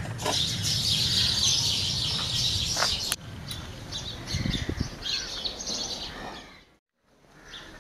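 Birds chirping and twittering, densest in the first three seconds. A couple of sharp clicks come about three seconds in, and the sound cuts out briefly near the end.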